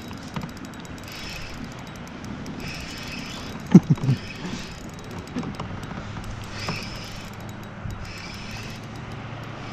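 Spinning fishing reel working in short spells every second or two while a hooked walleye is played. There is one short low sound about four seconds in.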